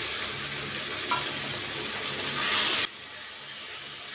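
Ground onion, ginger and garlic masala paste sizzling as it fries in hot mustard oil in a metal kadai, stirred in with a metal spatula: the start of frying down the curry masala. The sizzle is loud, then drops off suddenly about three seconds in to a quieter hiss.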